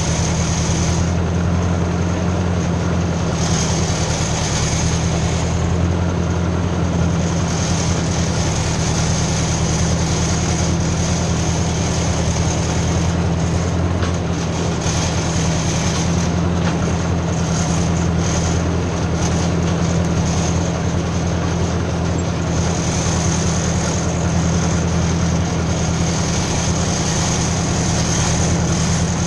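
Ford 600 tractor engine running steadily at an even speed.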